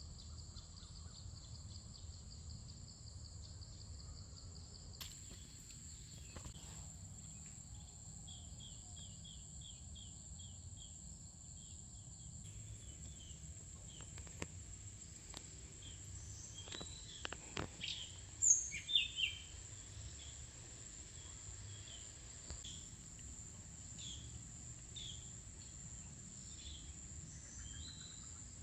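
Insects trilling steadily at a high pitch, with a run of short repeated bird chirps and, about two-thirds of the way through, a few louder sharp bird calls.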